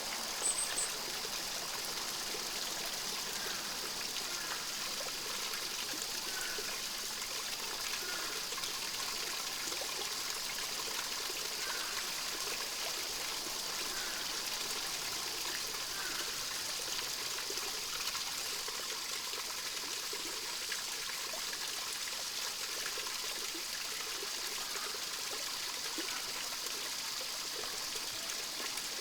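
Small stream trickling steadily, with faint scattered bird chirps and a brief high call about half a second in.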